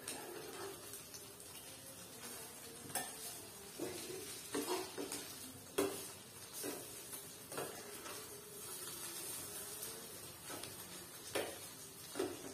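A spatula stirring and knocking against a frying pan, with irregular clacks, the loudest about halfway through, over the faint steady sizzle of food frying in oil.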